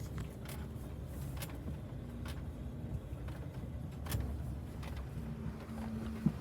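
Low, steady rumble of a vehicle cabin while driving slowly, with a faint steady hum and scattered small clicks and rattles.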